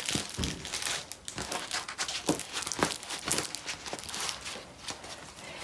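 Plastic packaging and a rolled diamond painting canvas being handled, with irregular crinkling and rustling.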